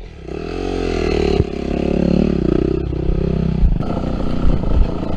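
Yamaha WR250F dirt bike's single-cylinder four-stroke engine revving up and down, with sharp knocks and clatter about a second and a half in and again in the second half.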